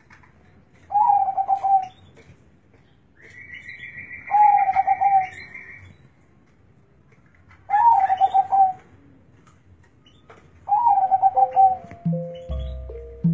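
Zebra dove (perkutut) cooing in four pulsing phrases a few seconds apart, with a higher steady trill around the second phrase. Music begins near the end.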